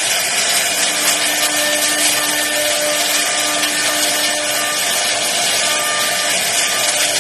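CNC router spindle carving wood: a loud, steady cutting noise with faint tones underneath that change pitch every second or so as the machine moves.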